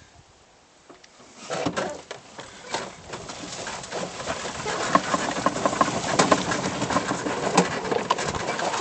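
Electric golf cart's tyres driving through mud and shallow river water, a dense crackling and splashing that starts about a second and a half in and grows steadily louder.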